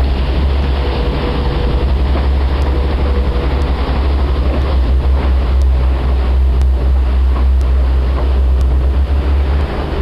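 Tour boat under way at sea: a steady, loud low rumble with a haze of wind and water noise.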